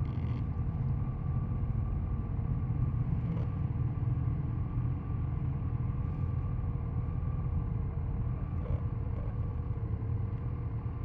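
Triumph Tiger Sport 660's inline three-cylinder engine running at a steady pitch, a deep low rumble.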